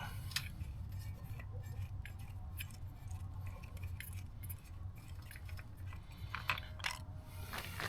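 Scattered light clicks and taps from handling a motorcycle's oil dipstick while checking the oil level, with a few sharper clicks near the end. A steady low hum runs underneath.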